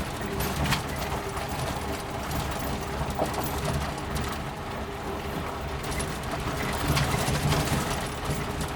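Suzuki Jimny running along a rough gravel forest road: a steady low engine and drivetrain rumble, with occasional knocks and rattles from the body as it bumps over the surface.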